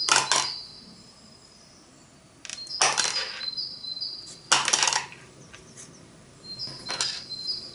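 Small plastic pieces being handled: several short clicks and clatters a second or two apart, with quiet gaps between.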